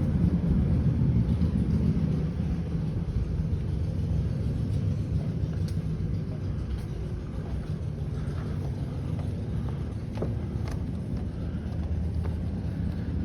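A boat's engine running at low cruising speed, a steady low rumble.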